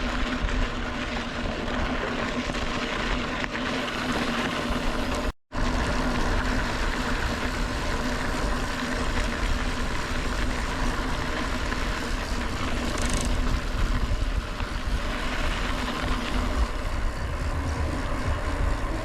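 Wind buffeting the microphone with a steady hum underneath while riding a mountain bike. The sound cuts out for an instant about five seconds in.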